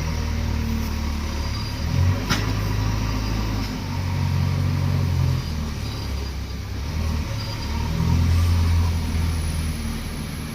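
Diesel engines of JCB 3DX backhoe loaders working, surging in spells and dropping back as they load. There is one sharp metallic knock a little over two seconds in.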